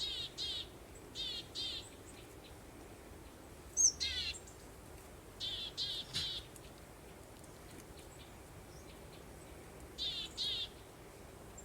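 Songbirds chirping in short phrases of quick trilled notes, in pairs or threes every few seconds, with one sharper high note about four seconds in, over a steady soft hiss.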